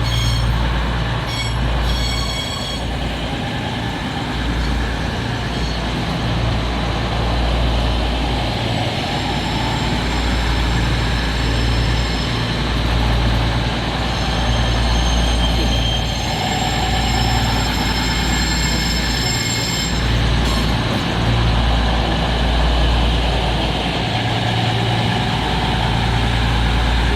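EMR Class 222 Meridian diesel multiple unit running its underfloor diesel engines while standing at the platform: a steady loud rumble with a pulsing low throb and faint high whines.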